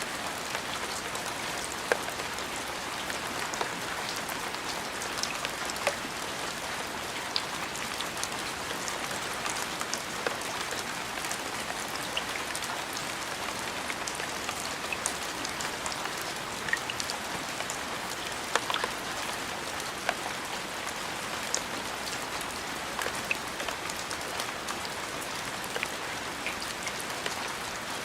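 Steady rain falling, an even hiss of drops with occasional sharper ticks of single drops landing close by.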